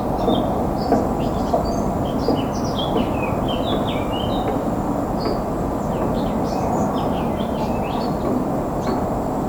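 Small birds chirping and twittering in quick, overlapping phrases over a steady low rumble.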